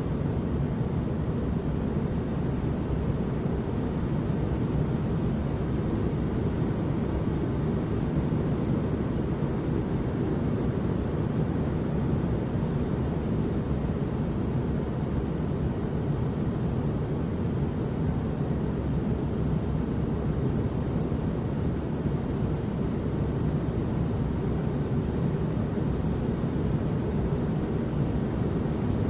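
Steady white-noise track for baby sleep: an even, unbroken hiss-rumble, deep and low-weighted rather than bright, with no change in level.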